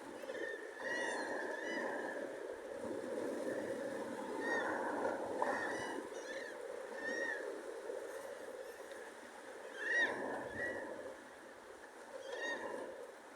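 Birds giving short, repeated arched calls in quick runs, over a steady rushing background noise.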